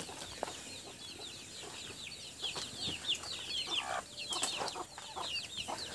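Birds peeping: a steady run of short, high chirps, each falling in pitch, several a second.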